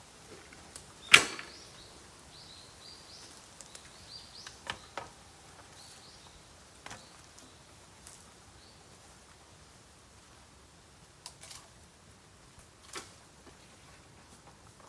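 Bamboo burning in an open bonfire, cracking and popping. One loud sharp crack comes about a second in, then scattered quieter pops.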